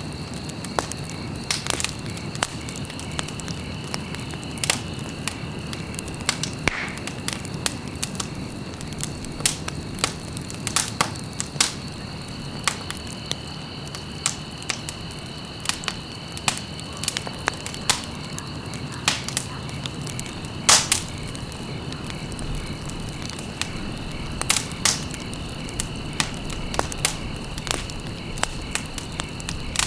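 Wood fire burning in a fireplace, crackling with irregular sharp pops over a steady low rush; one louder pop comes about two-thirds of the way through.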